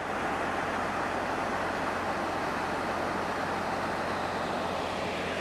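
A vehicle engine running steadily under an even rushing noise, with no change in pitch or level.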